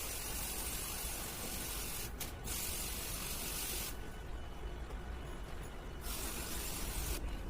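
Pressure spray jet hissing in spurts while cleaning an air conditioner. It breaks off briefly about two seconds in, stops for about two seconds from four seconds in, then sprays again briefly, over a steady low rumble.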